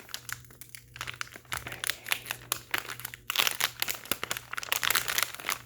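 Small paper envelope being opened by hand and its packet drawn out: crisp crinkling and rustling of paper and packaging, sparse at first and growing louder and busier about halfway through.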